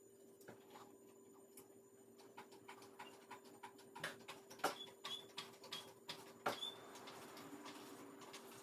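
Faint, irregular clicks and light knocks over a steady low hum, with two louder knocks, each followed by a brief high squeak.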